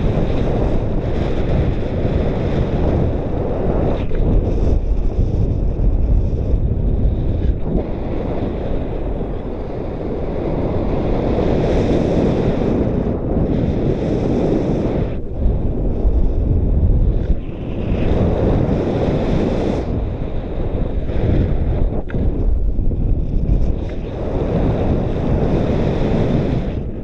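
Strong wind rushing and buffeting over the microphone of a paraglider in flight, rising and falling in gusts.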